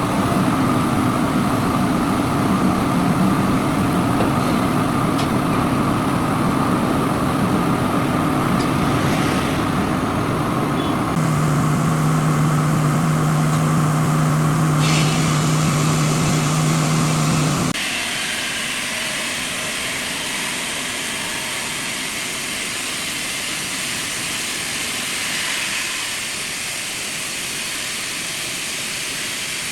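Heavy machinery running steadily, with engine tones throughout. The sound changes abruptly three times, most sharply about two-thirds of the way in, where the deep engine tone drops away and a quieter, hissier machine sound takes over.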